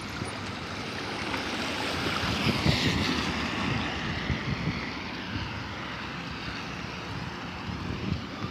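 Wind buffeting a phone microphone while riding, with gusty low rumbling and a rushing hiss that swells about three seconds in.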